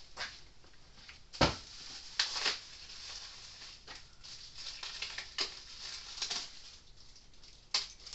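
Hands handling a replacement fence-charger transformer and parts at a workbench: irregular light clicks, knocks and rustling, with the sharpest knock about a second and a half in.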